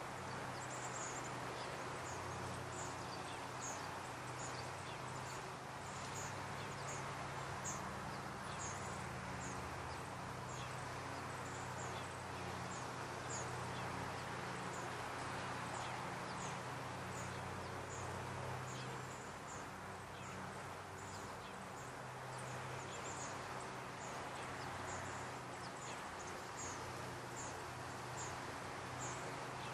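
A small bird chirps, high and thin, about once a second, over a steady outdoor hiss and a low hum.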